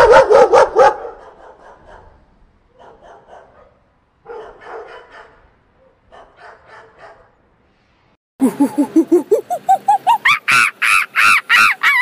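A dog barking: a quick run of loud yaps in the first second, then fainter, softer yips in short bursts. From about eight seconds in, a loud, fast series of pitched calls, three or four a second, climbs in pitch.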